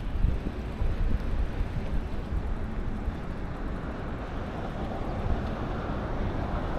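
Wind rumbling on the microphone of a moving bicycle, an uneven low noise without tones.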